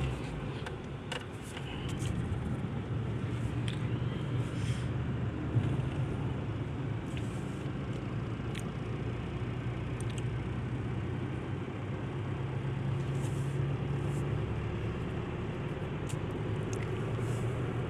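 Steady engine and tyre noise of an Isuzu vehicle driving along a road, heard from inside the cabin as a low, even hum.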